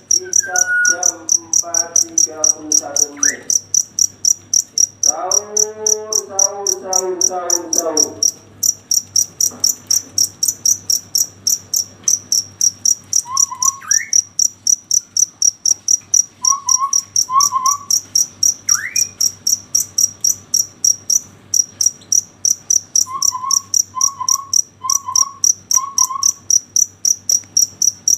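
A cricket chirping steadily and loudly, about three high-pitched chirps a second, briefly pausing twice.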